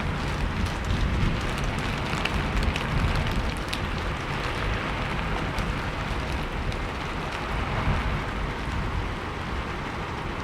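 Steady rain falling, a dense even patter with scattered sharper drop ticks and a low rumble underneath.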